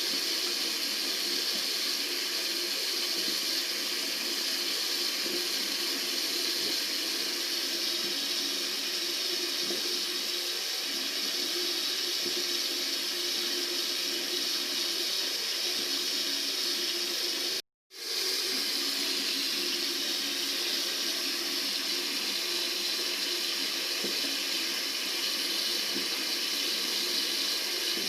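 Tap water running steadily from a faucet in an even rushing hiss. About 18 s in it cuts out to silence for a fraction of a second, then resumes.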